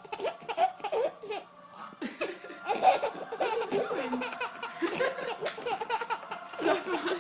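Laughter in many rapid short bursts, rising and falling in pitch throughout.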